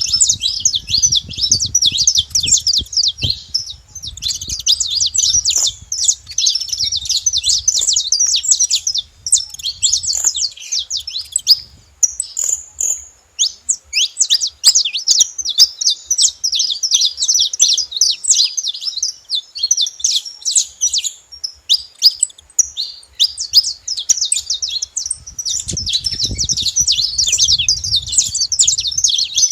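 A flock of saffron finches chirping and singing together: many overlapping high, quick chirps run almost without a break, thinning briefly about halfway through.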